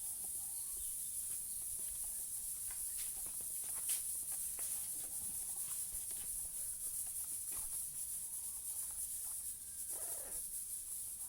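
Steady high hiss with scattered small clicks, and a short parrot call about ten seconds in.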